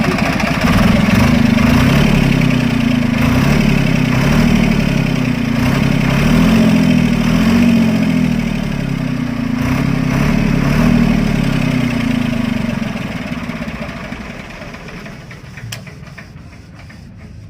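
Tractor diesel engine running with a pulsing, uneven beat, tested after work on its leaking diesel injection pump. Its sound fades away over the last few seconds.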